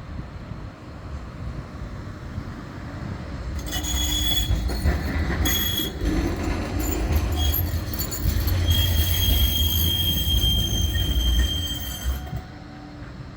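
Bombardier Flexity 2 tram passing, its running gear rumbling with high, steady wheel squeal from about four seconds in; it fades away near the end.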